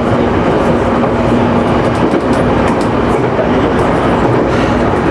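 JR Nikko Line local electric train running along the track, heard from inside the train: a steady rumble of wheels on rail with an even hum from the train's machinery.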